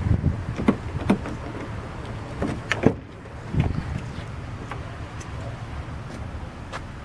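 A pickup truck's door being handled and someone getting into the cab: a few sharp clicks and knocks, the loudest about three seconds in, over a low rumble that settles quieter in the second half.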